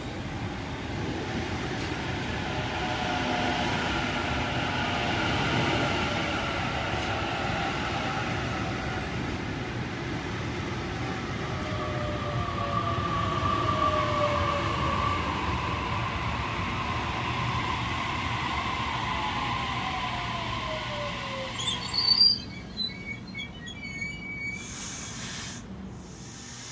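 Sydney Trains Waratah double-deck electric train running past along the platform: a steady rumble of wheels on rail, with whining tones that slide down in pitch and some wheel squeal. Near the end the rumble gives way abruptly to a few loud, sharp clatters and squeaks.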